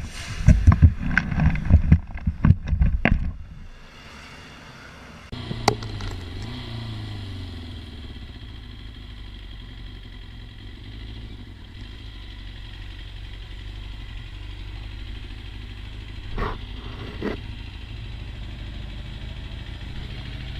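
A rapid run of loud knocks and clatter for about three seconds. Then a motorcycle engine runs steadily, its pitch falling at first as it slows, with two short knocks near the end.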